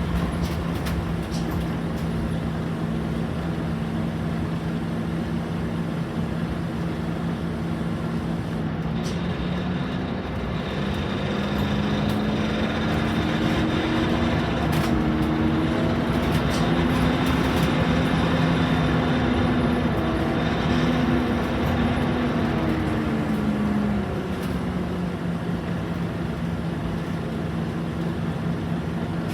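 Scania K230UB Omnilink single-deck bus heard from on board, its diesel engine running steadily at low revs. About a third of the way in, the engine pitch rises and grows louder, with a faint high whine, as the bus pulls away. Near the end it falls back to the lower steady hum.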